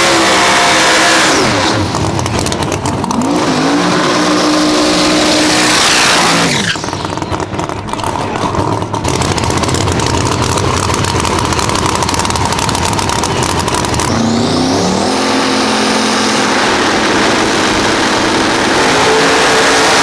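Drag race car engines, loud, revving up and dropping back in pitch several times. Then a long run climbs to a high, steady pitch in the last few seconds.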